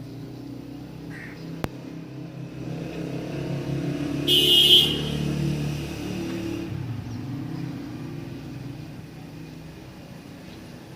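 A motor vehicle passing by, its engine rumble building to a peak near the middle and then fading away. A short, loud, high-pitched burst about four and a half seconds in, and a single click a little before two seconds.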